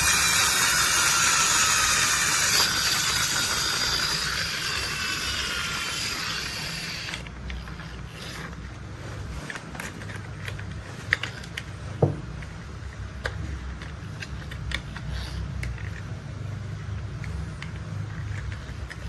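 Toy construction vehicles handled with small plastic clicks and ratcheting over a low steady rumble; a loud hiss fades out over the first several seconds, and one click about twelve seconds in is the sharpest.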